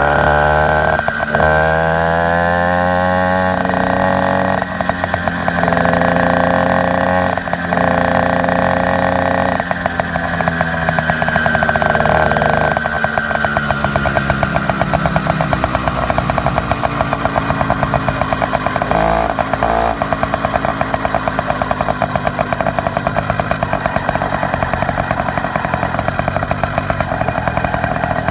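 Motorized bicycle's small engine with an upgraded exhaust, revved up and down several times in the first half, then running at a steadier speed with an even, rapid pulsing.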